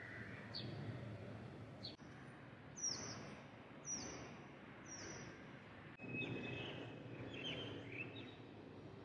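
Birds chirping over steady outdoor background noise: short, high, downward-sliding calls, three of them about a second apart in the middle, then a cluster of chirps near the end.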